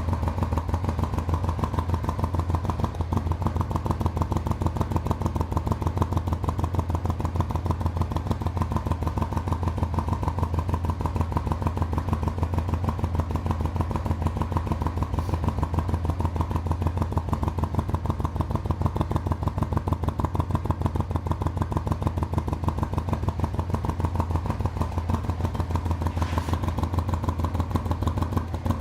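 Honda XRV750 Africa Twin's V-twin engine idling steadily through a new aftermarket exhaust with its dB-killer inserts fitted, with an even, unchanging beat.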